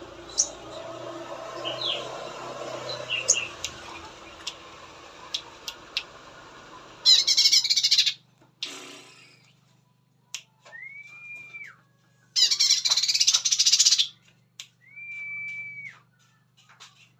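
Cucak ijo (green leafbird) singing: scattered short chirps, then two loud bursts of rapid harsh chatter, each about a second or more long, alternating with two drawn-out, even whistled notes.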